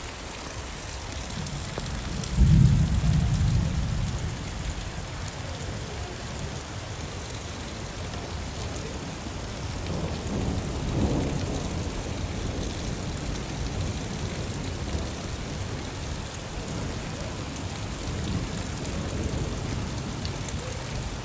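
Steady rainfall with rolls of thunder: a sudden loud low rumble a couple of seconds in that fades over about two seconds, and a weaker rumble about halfway through.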